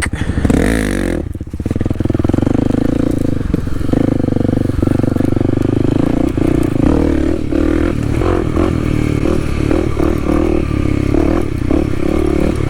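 Kawasaki KLX300 dirt bike's single-cylinder four-stroke engine running under throttle while riding, dropping off briefly about a second and a half in, then pulling steadily with small rises and falls in revs.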